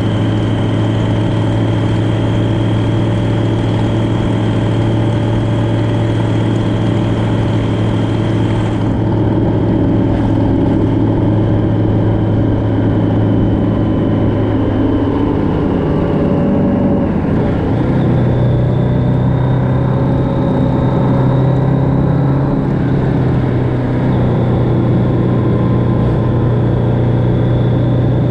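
Motorcycle engine running steadily while riding along the road, its pitch dipping and then settling slightly higher about two-thirds of the way through as the engine speed changes.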